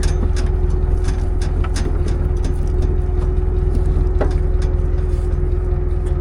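Heavy farm machinery engine running steadily with a constant hum and whine, overlaid by scattered light clicks and knocks, one sharper knock about four seconds in.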